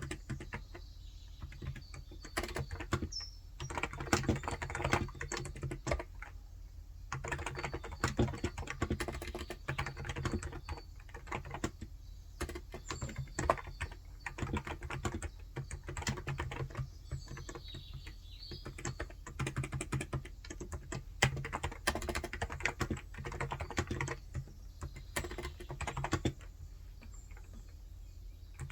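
Typing on a COX Endeavor electro-capacitive (Topre-style) 35 g tenkeyless keyboard: rapid key clicks in runs of several seconds with brief pauses, easing off near the end.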